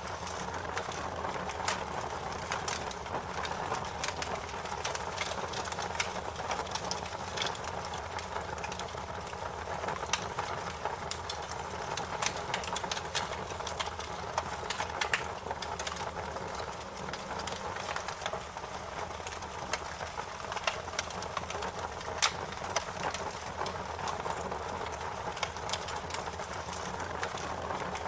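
Wood fire crackling: a steady hiss and low rumble of burning with frequent sharp pops and snaps scattered throughout.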